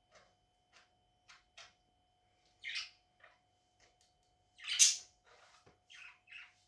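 Pet budgerigars chirping in short, scattered calls, with louder squawks about three seconds in and, loudest, about five seconds in.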